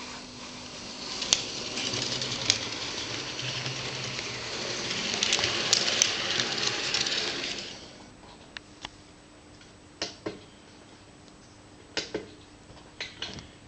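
Märklin H0 model electric locomotive with an mfx sound decoder running on track. Its running noise builds over several seconds and drops off about eight seconds in. After that come scattered sharp clicks.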